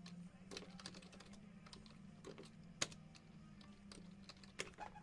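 Light, irregular clicks and taps, the sharpest one nearly three seconds in, over a faint steady low hum.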